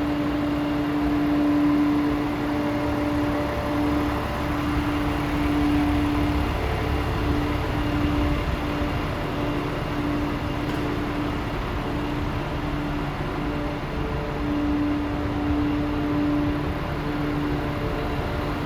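Paccar diesel engine of a DAF CF440 tractor unit idling steadily, a low rumble with a held hum that fades in and out.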